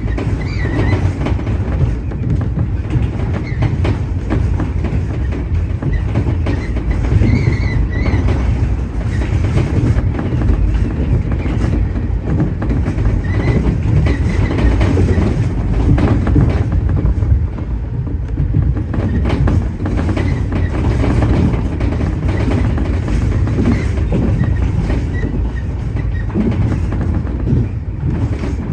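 Tobu 30000 series electric train running at speed, heard from inside the train: a steady rumble of wheels on rail with clicks over rail joints and brief faint high squeals now and then.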